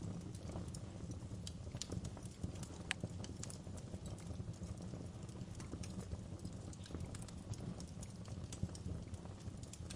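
Fireplace fire crackling: irregular sharp snaps and pops, a few louder ones, over a steady low rumble of the flames.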